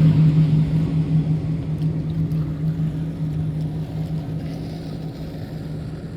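A motorboat's engine running with a steady low hum that slowly fades as the boat moves away, over wind and water hiss.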